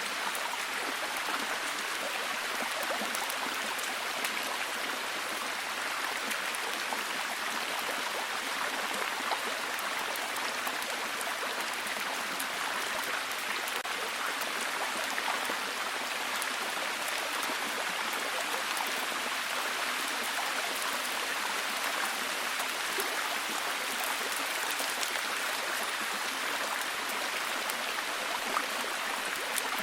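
Steady heavy rain, a dense even hiss of falling drops with fine pattering detail and no pauses.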